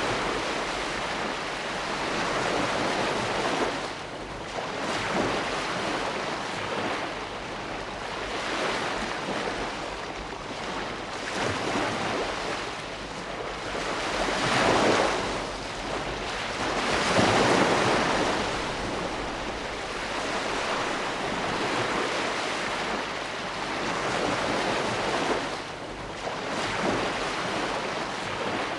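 Ocean waves breaking and washing onto shore in a steady, continuous rush, swelling and easing every few seconds, with the biggest surges in the middle.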